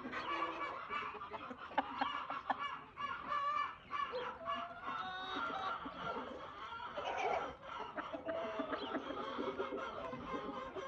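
A flock of free-range chickens clucking and calling, many short overlapping calls at once.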